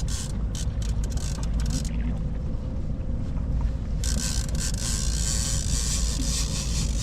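Steady low rumble of a fishing boat on the water, with a faint constant hum. There are a few light clicks in the first two seconds, and a rushing hiss comes in about four seconds in.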